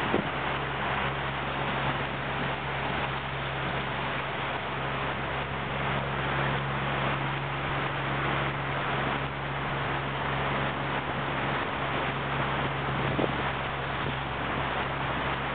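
Wind rushing over the microphone and water noise while under sail, with a steady low hum underneath.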